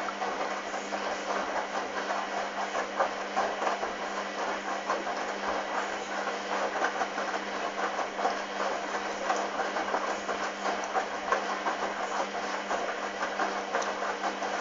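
Hoover Dynamic washing machine in its rinse stage: a steady motor hum with water and wet towels sloshing in the turning drum.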